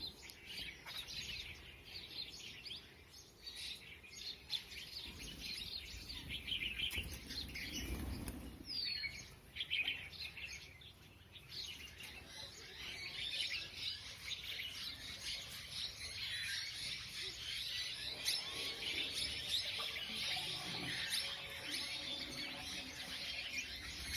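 Many birds chirping and calling at once in a dense, continuous chatter, with a short falling whistle and a low thud about eight or nine seconds in.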